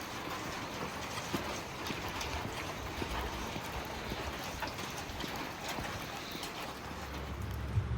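Steady rain on a wet street, with scattered light ticks and taps. A low steady hum comes in near the end.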